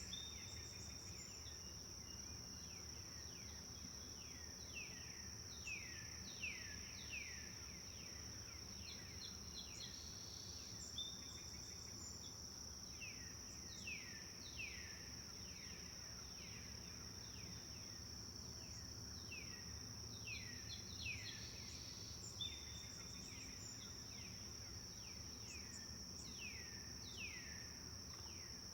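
Forest ambience: a continuous high-pitched insect drone, with a bird giving runs of quick downward-sweeping calls again and again, over a faint low rumble.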